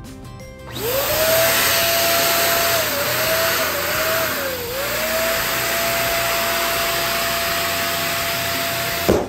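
Electric balloon pump running with a hissing rush of air and a steady whine that dips in pitch a few times, then cuts off sharply near the end.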